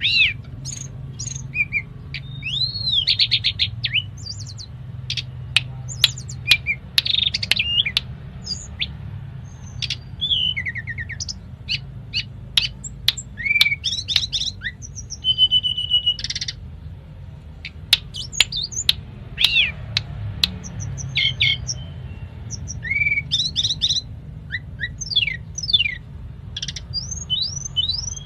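Tledekan gunung singing a long, varied song of whistles, rising and falling notes, sharp clicks and a short trill, with imitated phrases from other birds' songs, over a steady low hum.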